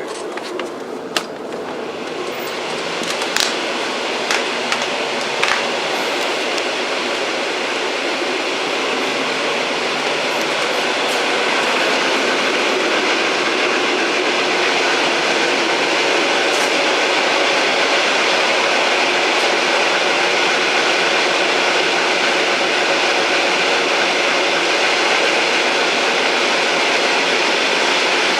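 Old train running: a steady rumbling rush that swells over the first few seconds. A few sharp clicks and knocks come early on, then it runs evenly.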